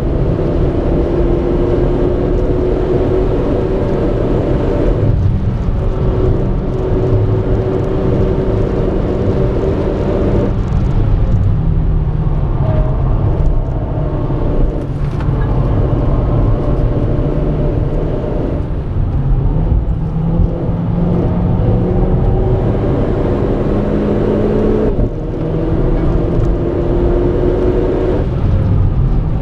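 Renault Clio RS 220's turbocharged four-cylinder engine under hard acceleration on a race track. Its note climbs in pitch through several long pulls, broken by short dips at gear changes or lifts, over steady road and tyre rumble.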